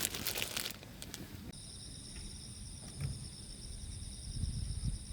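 A short burst of crackling and rustling, then, about a second and a half in, insects start trilling: steady high-pitched pulsing tones. A few low rumbles sit underneath.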